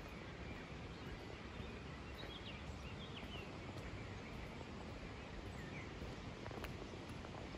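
Quiet outdoor ambience: a steady background rush with a few faint bird chirps, a cluster about two to three seconds in and one more near six seconds.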